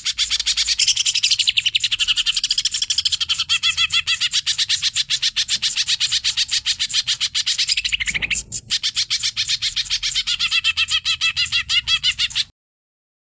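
Green leafbird (cucak ijo) singing a fast, continuous chattering trill of about a dozen notes a second. It cuts off abruptly near the end.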